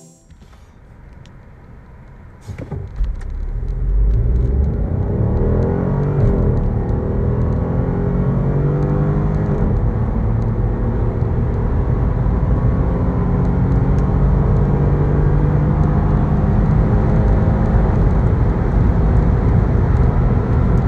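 BMW 118i's 1.5-litre turbocharged three-cylinder B38 engine under full-throttle acceleration. It runs quietly for about three seconds, then gets loud as the car launches, and the engine pitch climbs as the revs build.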